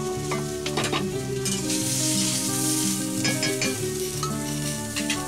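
Potato chunks and onions sizzling in oil in an iron wok, the hiss coming in about a second and a half in, with a few sharp scrapes. Before it, a couple of strokes of a stone roller on a grinding slab. Instrumental background music with held notes plays over it all.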